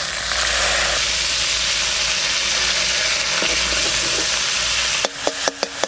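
Onion paste dropped into hot mustard oil in a karai, sizzling loudly and steadily. About five seconds in the sizzle cuts off and gives way to a quick run of sharp metal knocks with brief ringing, like the spatula knocking against the pan.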